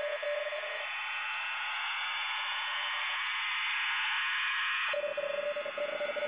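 Steady static hiss with a steady tone; the tone drops out about a second in and comes back near the end.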